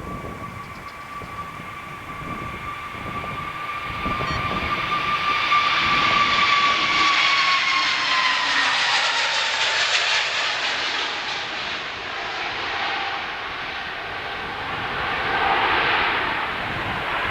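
Airbus A320neo jet engines at high power passing by, a loud whine that drops in pitch as the aircraft goes past, with a broad jet rush swelling and then easing. Wind buffets the microphone with a low, gusty rumble.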